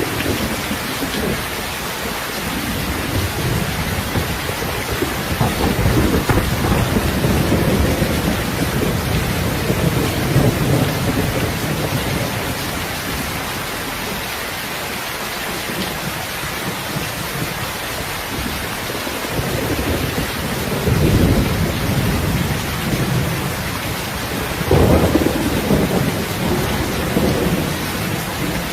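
Steady rain falling, with low rumbles that swell for a few seconds at a time: about five seconds in, around twenty seconds in, and again near the end.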